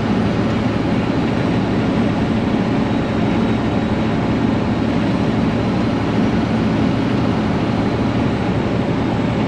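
Detroit Diesel Series 60 12.7-litre engine of a 2000 International 9900i semi truck running steadily at highway cruise under load, heard from inside the cab together with road noise as a constant low drone.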